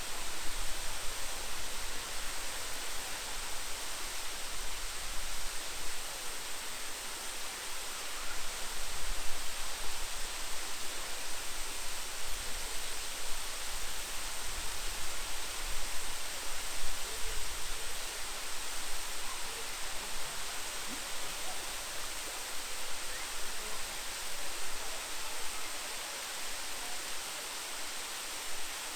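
A waterfall rushing steadily: a dense, even hiss of falling water with no breaks.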